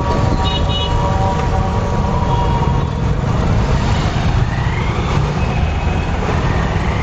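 Road traffic heard from a moving motorcycle: a steady low rumble of wind and engine, with a few short high-pitched tones in the first second.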